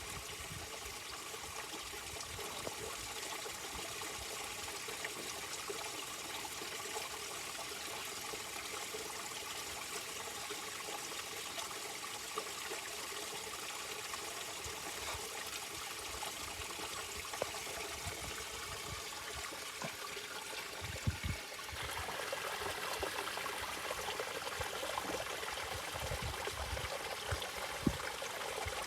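A tiny waterfall: a small flow of water falling and trickling steadily over rocks. It grows a little louder and brighter about three quarters of the way through.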